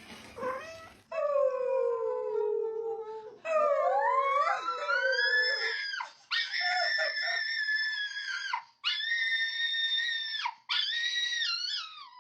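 A pet animal giving a run of long drawn-out calls: a falling call first, then several overlapping gliding ones, then three high, steady calls held for about two seconds each, the last one wavering.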